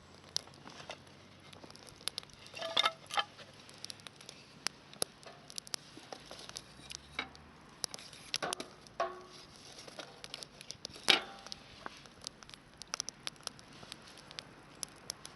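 Wood fire crackling in a handmade fire pit, with irregular sharp pops and ticks, and a few louder clinks, the loudest about 11 seconds in.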